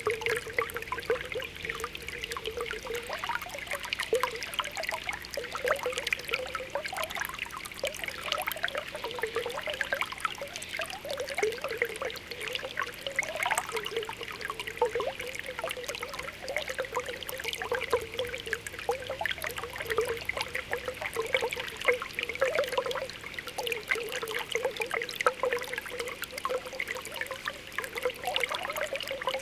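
Spring water welling up from the ground: a continuous mass of small bubbling pops and gurgles over a light trickle, with a recurring burbling tone low in pitch.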